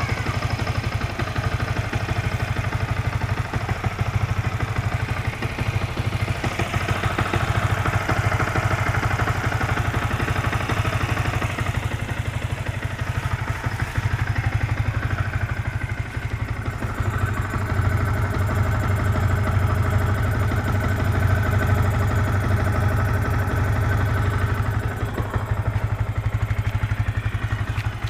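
Yamaha New Vixion Lightning's single-cylinder four-stroke engine running steadily at idle, with the abnormal engine noises its owner is trying to show.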